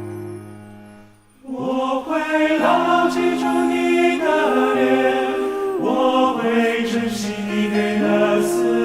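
A held chord fades away, then about a second and a half in a choir comes back in, singing slow, sustained harmonies in several parts.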